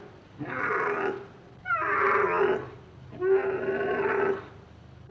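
An animal calling: three drawn-out pitched cries of about a second each, with short pauses between them.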